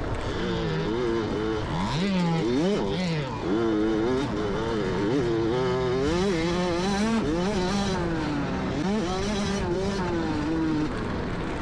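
Motocross dirt bike engines on the track, revving up and dropping back again and again with the throttle, their pitch climbing and falling. More than one bike is heard at once, with two engines crossing in pitch a few seconds in.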